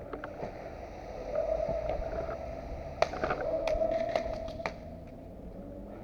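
Airsoft gun firing a quick string of sharp shots, about half a dozen, starting around three seconds in: suppressing fire to cover a teammate's crossing. A steady hum runs under the shots and stops when they do.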